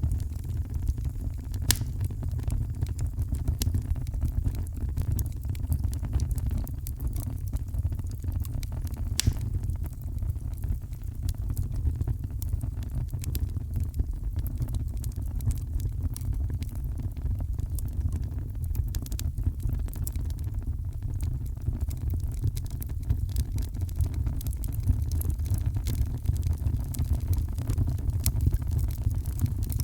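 Heavy rain heard from indoors as a steady low rumble, with a fireplace crackling in frequent sharp, irregular snaps over it.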